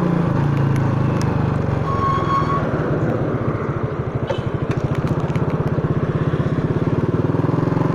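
Honda Astrea motorcycle's small single-cylinder four-stroke engine, dropping from a steady running note to a slow, evenly pulsing idle about a second in, then picking up again near the end.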